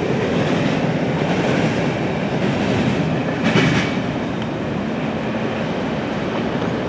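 Freight train of loaded covered grain hopper cars rolling away on the rails: a steady rumble and clatter of wheels that eases off a little toward the end, with a brief high-pitched screech about three and a half seconds in.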